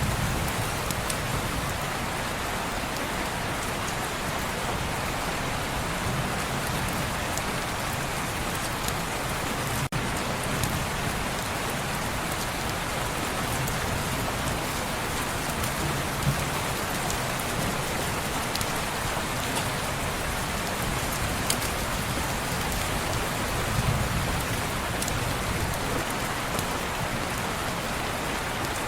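Steady rain on window glass, an even dense patter, with a few brief sharp clicks.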